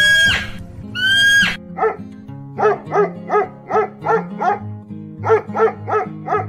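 Small dog barking repeatedly in short, evenly spaced barks, about a dozen in two runs with a brief pause in the middle, over background music. Before the barking, in the first second and a half, come two loud high animal calls that rise and fall in pitch.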